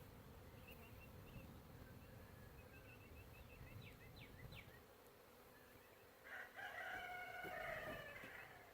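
Birds calling: a series of quick, high chirps, then a louder, longer call of about two seconds near the end.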